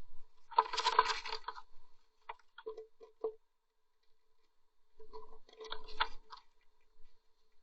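Blue tits moving about in the nest box: two bursts of scratching and tapping on nest material and wood, about a second and a half apart at the start and near the end, with a few single sharp taps in between.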